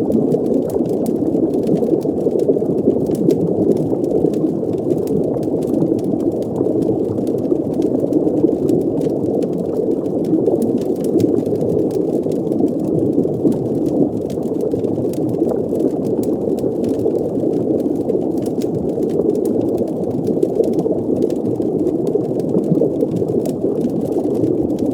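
Underwater fireplace ambience: a steady, muffled water rumble with faint scattered crackles over it.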